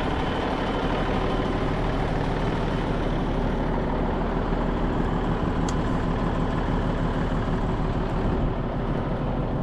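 Case 2670 four-wheel-drive tractor's diesel engine running steadily, with a single brief click a little past the middle.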